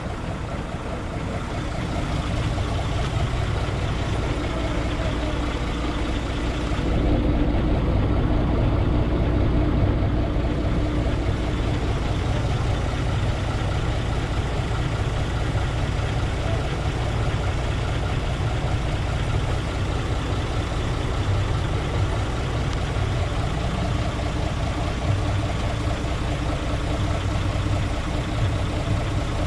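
Heavy vehicle engine idling and running steadily, slightly louder for a few seconds about seven seconds in.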